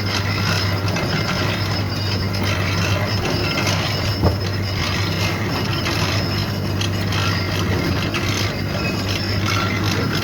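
Factory machinery running steadily, a continuous low hum under a clattering mechanical din, with one sharp knock about four seconds in.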